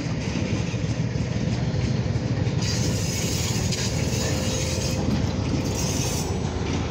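Freight train of covered grain hoppers rolling past on the Oil Creek & Titusville line, a steady low rumble of wheels on the rails.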